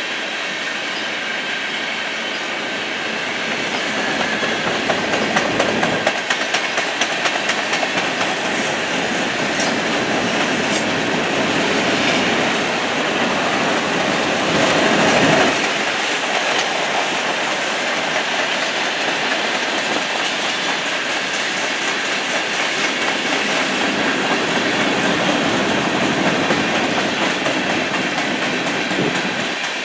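Freight train cars rolling past, their steel wheels clacking over rail joints in a steady rumble. The clacks are sharpest about four to six seconds in.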